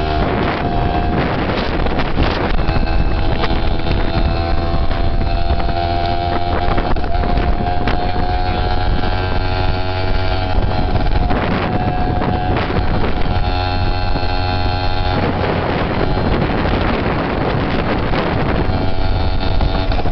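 Dirt bike engine running at a steady cruise while riding, its pitch drifting only slightly, under heavy wind rumble on the microphone.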